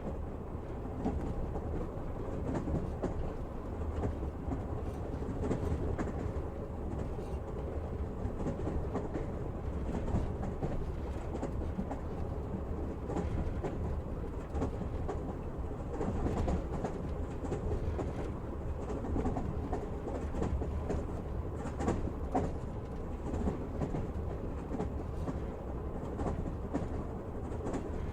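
Train running on rails: a steady rumble with the clickety-clack of wheels over rail joints and scattered light ticks, heard from inside the carriage.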